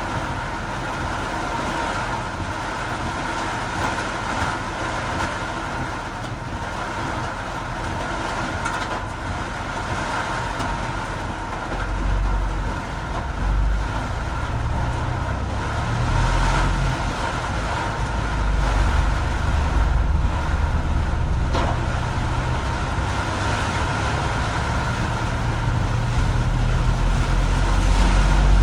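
Vehicle noise on a road in heavy rain: a steady hiss of rain and tyres on wet asphalt, with a deeper rumble that comes in about twelve seconds in and grows louder toward the end.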